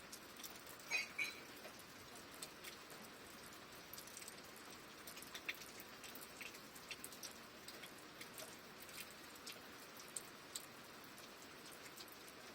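Light rain: a soft steady hiss with scattered drops ticking and dripping. About a second in, two short, high chirps stand out above the rain.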